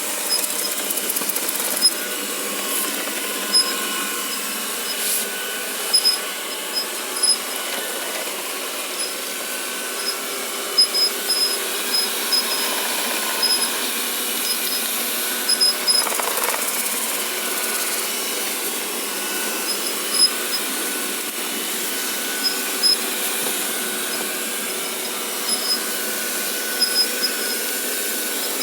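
Vacuum cleaner running steadily while giving off short, high-pitched squeaks and squeals that come and go irregularly, every second or two.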